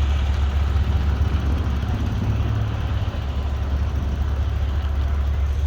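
Diesel truck engines idling: a steady low rumble.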